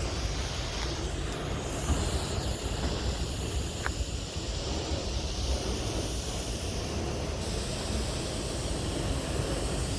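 Freight train coming up slowly, a steady low rumble with a hiss over it, and one brief click about four seconds in.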